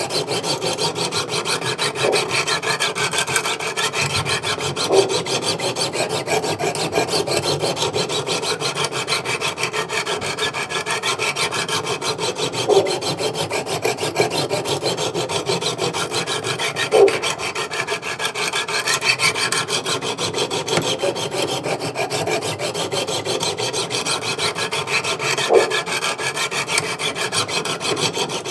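Wicked Edge Go diamond sharpening stones rubbed back and forth along an S35VN steel knife edge, a steady continuous rasping with a few brief louder knocks. The passes are grinding one bevel to raise a burr.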